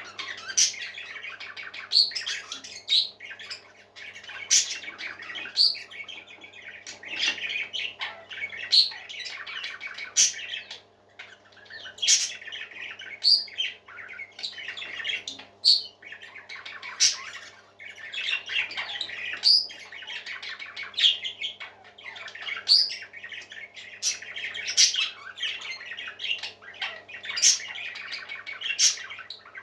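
Pet parakeets chattering and warbling without a break, with frequent short, sharp high chirps, over a faint steady hum.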